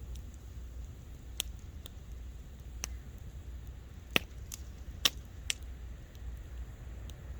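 Wood campfire crackling: sharp, irregular pops, about half a dozen, the loudest two around four and five seconds in, over a steady low rumble.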